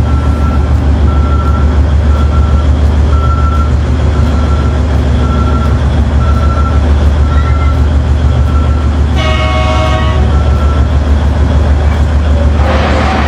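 Heavy mining machinery running with a steady low drone, over a regular short beeping about one and a half times a second, like a reversing alarm. A short horn toot sounds about nine seconds in, and a burst of hiss comes near the end.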